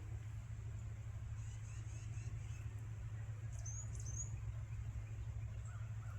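Small birds chirping: faint high notes early on, then two or three short, sharp, rising chirps about four seconds in, over a steady low rumble.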